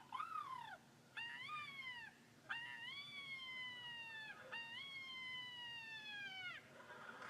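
A person imitating the call of a red-throated loon: a run of four wailing calls, two short arched ones followed by two long ones that rise and then slowly sink in pitch.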